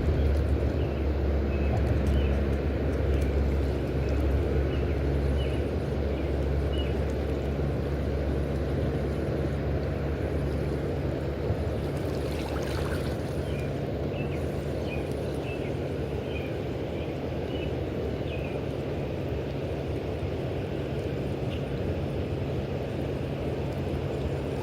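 Steady low rumble of fast river water flowing below a dam, with a constant low hum underneath and faint short chirps over it.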